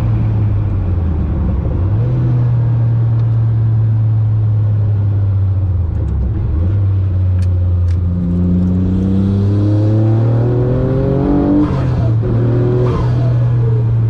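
Noble M12 GTO-3R's twin-turbo V6 heard from inside the cabin while lapping a circuit. It runs steadily at first, then climbs in pitch under acceleration for a few seconds in the second half. Near the end it drops abruptly, as at an upshift, and starts climbing again.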